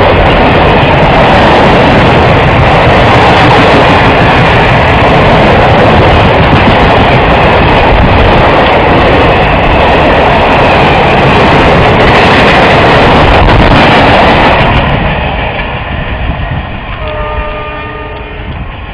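Freight train passing close by, its wagons running past in a loud, steady rumble that fades off after about fifteen seconds. Near the end a horn sounds briefly, several steady tones together.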